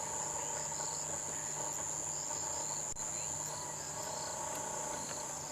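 Insects chirring steadily: one continuous high-pitched drone.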